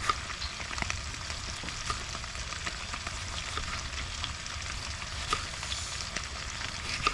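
Food sizzling over a campfire: a steady hiss with scattered small pops and crackles.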